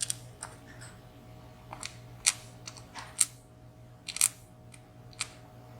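Sharp metallic clicks and taps of small tools against the parts of a WSW W10 slider padlock being taken apart, about seven separate clicks spaced irregularly, the loudest a little past two, three and four seconds in, over a faint steady hum.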